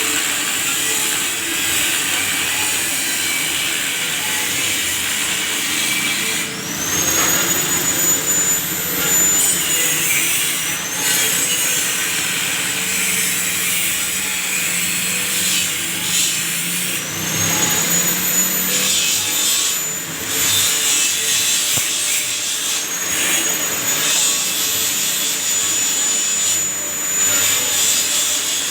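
Band saw running and cutting, a steady rasping noise with a high whine that rises in and holds for a few seconds, three times.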